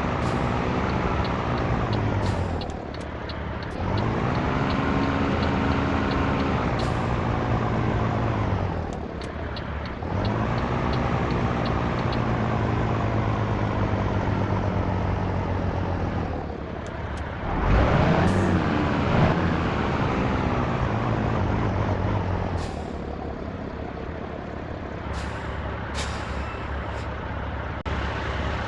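Scania T113 truck's straight-six diesel running under way, its revs dropping and climbing again four times, as at gear changes. Short hisses from the air system and a loud low burst at about the middle sound over it.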